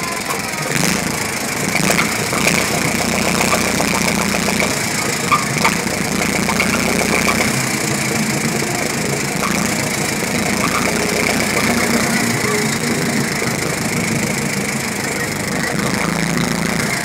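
1917 American LaFrance Speedster's engine running as the car drives slowly: a dense, steady clatter with a high whine over it and a couple of sharper knocks about five seconds in.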